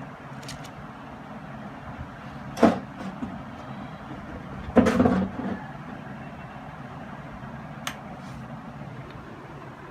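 Two loud knocks over a steady low hum: a sharp one about two and a half seconds in, then a louder, rattling clatter about two seconds later, with a few faint ticks elsewhere.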